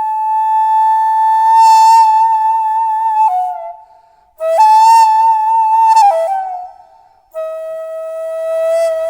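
Solo daegeum, the Korean transverse bamboo flute, playing slow phrases of long held notes with a slight waver. Two short breath pauses split the phrases, about four and seven seconds in, and the last phrase settles on a lower note.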